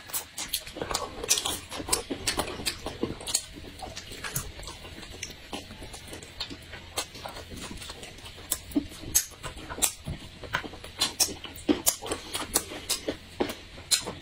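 Close-up eating sounds: people chewing with their mouths and smacking their lips, a run of irregular short wet clicks, several a second.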